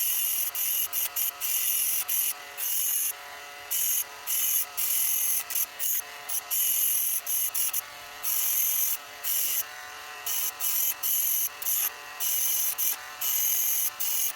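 A small high-speed power tool switched on and off in many short bursts, a hissing whine during each burst.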